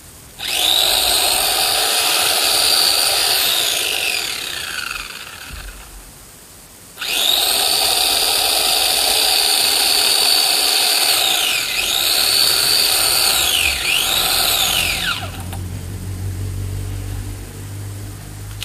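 Electric chainsaw running in two bursts, a high whine that winds down in pitch as each burst ends. In the second, longer burst the pitch dips briefly twice before it winds down.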